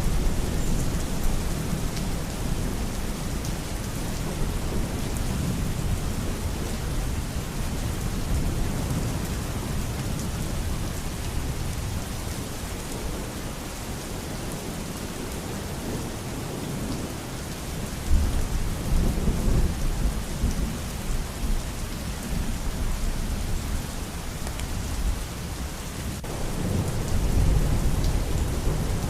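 Steady heavy rain with low rolls of thunder: one near the start, a sharper one breaking about two-thirds of the way through and rumbling on for a few seconds, and another near the end.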